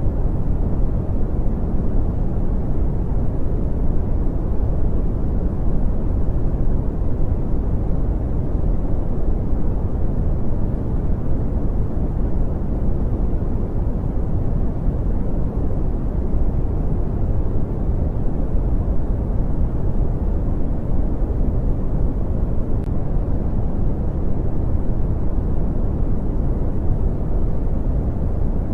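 Steady brown noise: an even, deep rumbling hiss, strongest in the bass and falling off steeply toward the treble, with no changes.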